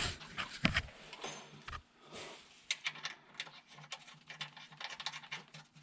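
Scattered light clicks and taps of a connecting rod cap and its nuts being fitted by hand on the crank journal of a John Deere B engine, ahead of snugging the nuts.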